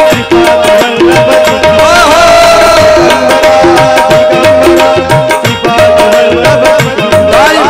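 Bhajan music without words: hand drums keep a fast, steady rhythm under a short melodic figure played on sustained tones and repeated over and over.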